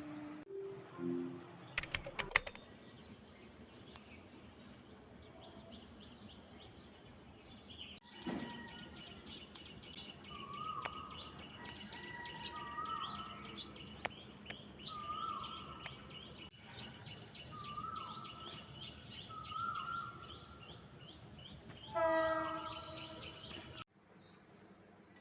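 Birds chirping and calling, with one call repeated about every two seconds over a steady chirping background, broken by a few abrupt cuts.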